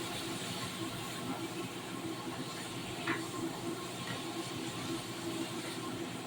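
Steady hissing of food cooking on the stove, with a brief sharper sound about three seconds in.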